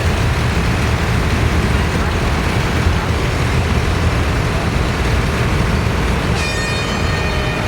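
Tractor engines running steadily as a parade of tractors passes, a low rumble throughout. Near the end a horn sounds, held for about a second.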